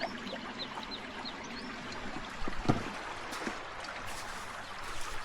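Water trickling steadily along the shore, with a single sharp knock about two and a half seconds in.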